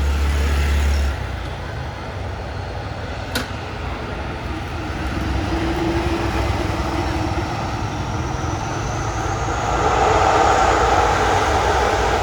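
Turboprop engines of an ATR 72-500 airliner running, growing louder with a high whine that slowly rises in pitch over the last few seconds. A single sharp click sounds a few seconds in.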